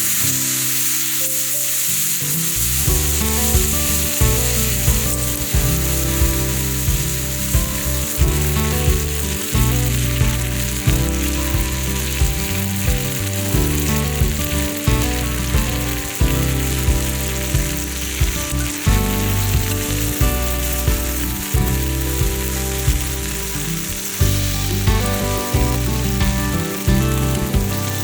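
Food sizzling as it fries, a steady hiss. Background music with a bass line and a steady beat comes in about two seconds in.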